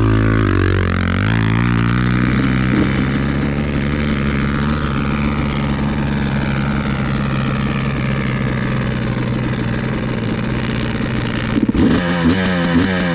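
Dirt bike engine running steadily at low revs, with a rising whine in the first couple of seconds as it is revved.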